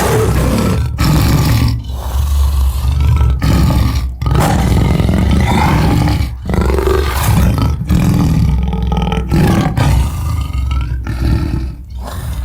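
Designed dinosaur (Daspletosaurus) roars made from layered lion and wolf recordings: a run of deep roars and growls, one after another with short breaks, starting suddenly.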